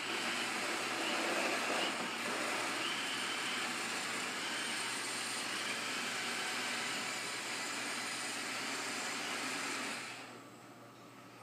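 Roomba robot vacuum running, its motor and brushes giving a steady whir, then shutting off about ten seconds in. It stops because its cliff sensors read the rug's dark spiral pattern as a drop-off.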